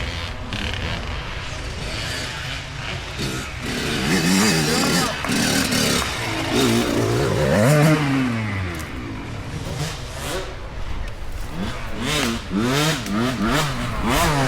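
Small dirt bike engines revving up and down as riders work through a technical section, the pitch climbing and dropping again several times, loudest about eight seconds in and again near the end.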